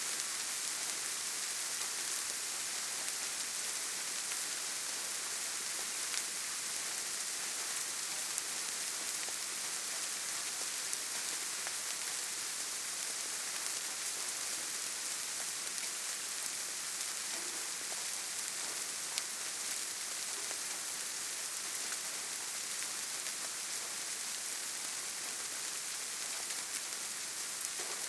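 Steady rainfall on forest foliage: an even hiss of many drops with occasional faint individual drop ticks.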